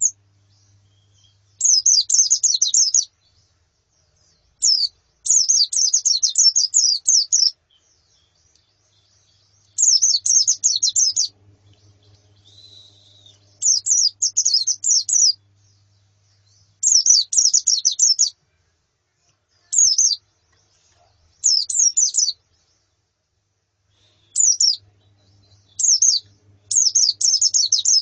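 White-eyes (pleci) calling in short bursts of rapid, high chirps, about a dozen bursts with brief gaps between them. This is female and colony calling of the kind used to stimulate male white-eyes to sing. A faint low hum lies under some of the bursts.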